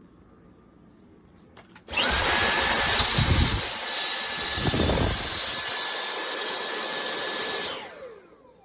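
Vacuum cleaner switched on, running steadily with a rush of air and a constant whine, then switched off and winding down with a falling whine. Twice while it runs, the rush deepens briefly.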